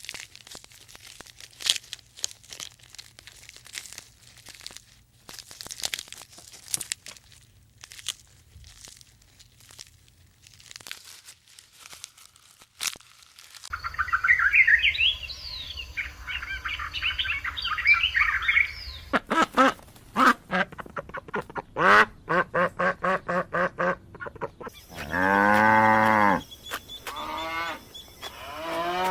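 A succession of different animal and bird calls. First come scattered chirps and clicks, then quick rising and falling whistled notes. After that comes a rapid run of short repeated calls, and near the end two loud, long pitched calls.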